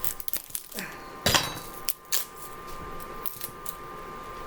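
A kitchen knife chopping an onion on a cutting board: a handful of irregular knocks of the blade on the board, the loudest about a second in. The knife is dull and cuts poorly.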